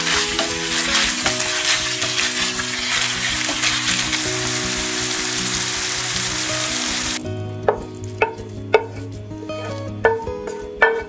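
Minced beef filling with tomato and green pepper sizzling in a frying pan as it is stirred with a wooden spoon, over quiet background music. About seven seconds in, the sizzling cuts off suddenly and plucked-string music carries on alone.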